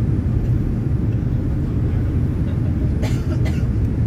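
Steady low rumble of a passenger plane's cabin noise in flight, with two brief sharp noises about three seconds in.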